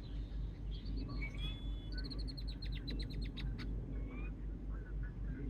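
Small birds chirping and whistling, with a fast trill of high notes a couple of seconds in, over a steady low background rumble.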